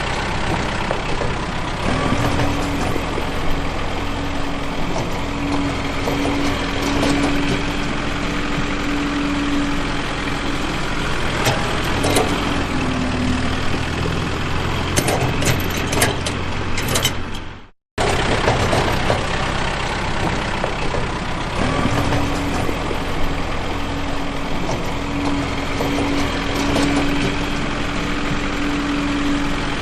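Tractor engine running steadily, with a steady drone that comes and goes. The sound cuts out abruptly for a moment about two-thirds of the way through.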